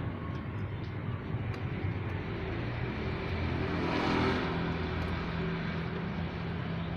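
Road traffic: motor vehicle engines running steadily, with one vehicle passing closest about four seconds in.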